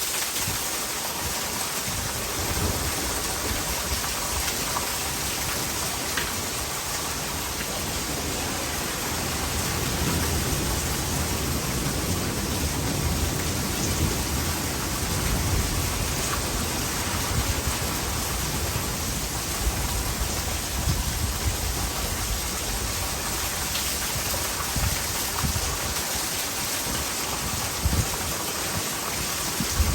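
Heavy rain pouring steadily in a thunderstorm, with scattered sharp drip hits and water running into a gutter. A low rumble of thunder swells through the middle.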